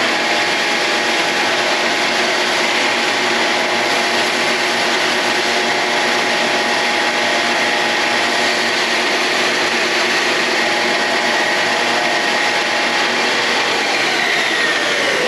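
Handheld angle grinder running steadily against metal with a constant whine, then released near the end so its motor winds down in pitch.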